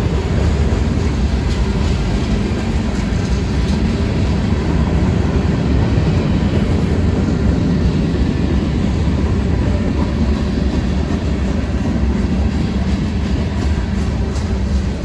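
Freight train rolling past, a steady low rumble of its wheels on the rails.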